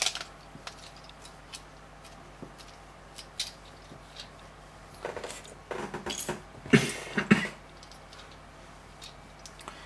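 Plastic LEGO bricks clicking and clattering as pieces are handled and pressed onto the model: scattered single clicks, with a denser run of louder clicks about five to seven and a half seconds in.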